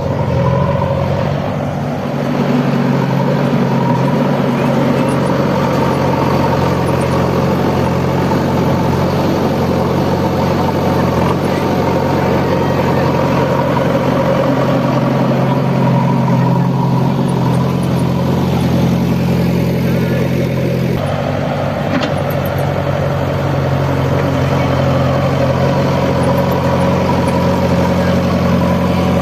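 Heavy machine engine of a backhoe loader or tractor running steadily at low revs. Its sound changes abruptly about 21 seconds in.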